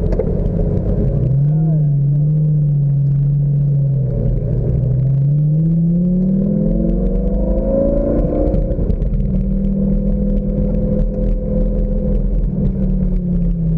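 Lamborghini engine heard from the open cockpit, running steadily, then rising in pitch as the car accelerates for about four seconds. The pitch drops sharply at an upshift about eight and a half seconds in, holds steady while cruising, and eases off near the end.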